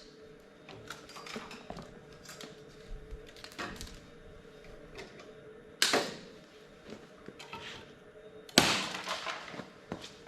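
Hands working at packaging and parts: scattered clicks and taps, with two loud sharp knocks about six and eight and a half seconds in, the second trailing off in about a second of rattle.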